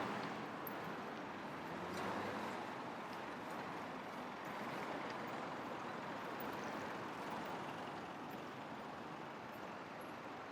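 Street traffic: a steady wash of passing vehicles. It swells about two seconds in and slowly eases off.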